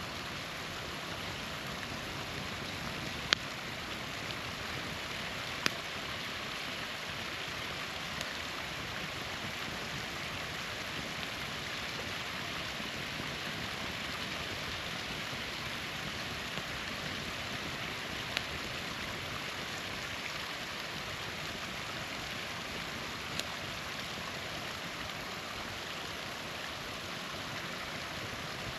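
Steady rushing of a small waterfall, with a few sharp pops and cracks from a burning campfire scattered through it; the loudest comes about three seconds in.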